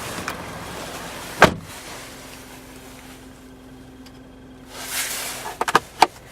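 A car door shutting with one heavy thump about a second and a half in, then a few quick clicks near the end as the glovebox latch is worked.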